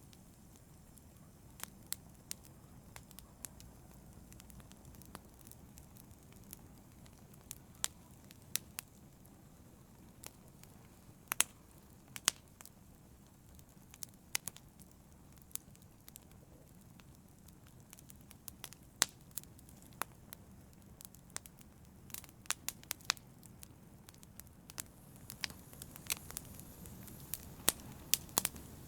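Wood fire crackling in a fireplace: irregular sharp pops and snaps over a soft, low hiss of the burning logs, the pops coming more thickly near the end.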